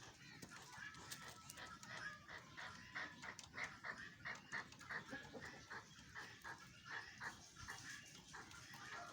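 Chukar partridge calling: a faint, rhythmic series of short repeated chuck notes, about three a second.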